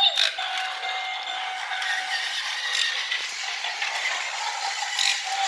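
Battery-powered Tomy Plarail C62 toy steam locomotive running on plastic track, its motor and wheels giving a steady rattling clatter. A thin steady beep-like tone from the toy sounds for about two seconds near the start and again near the end.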